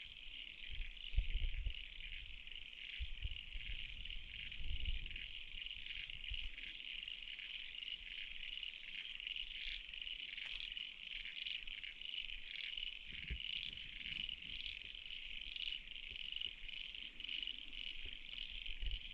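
A steady, high-pitched chorus of calling frogs, finely pulsing without a break. Occasional low rumbles from wind on the microphone sit beneath it.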